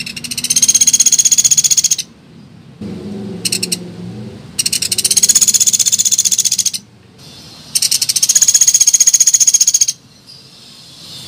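Recorded lure call of the pelatuk beras bird: three rapid, high-pitched rattling trills of about two seconds each, with a short burst of the same notes between the first two.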